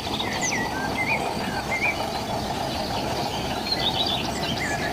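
Birds chirping several times over a steady low rushing noise.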